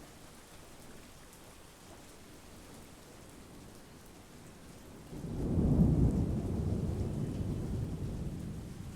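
Steady monsoon rain, then about five seconds in a low rolling rumble of thunder swells suddenly, peaks a second later and slowly dies away.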